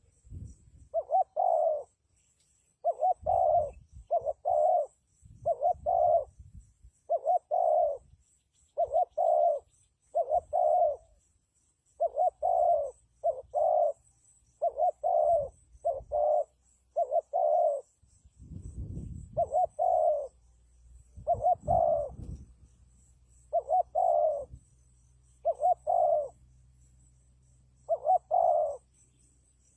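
Spotted dove cooing: a long series of short two-part coos, one about every second and a half, with low rumbles underneath at times.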